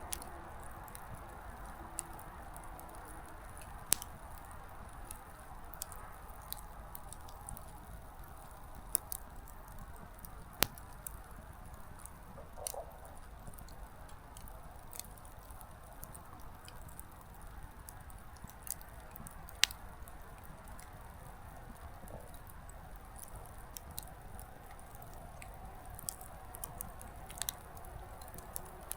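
Small wood campfire burning low, with sparse sharp crackles and a few louder pops of the firewood over a soft steady hiss.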